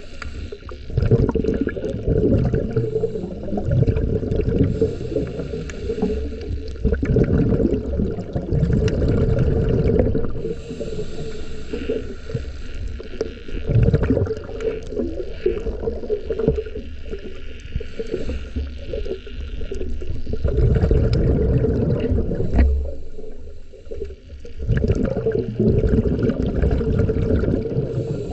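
Muffled, uneven water rumble and sloshing, recorded by a camera in an underwater housing, rising and falling in surges every few seconds.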